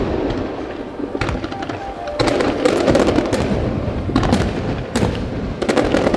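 Fireworks going off: a dense run of sharp bangs and crackling from bursting shells, with fresh volleys about two seconds in and again near the end.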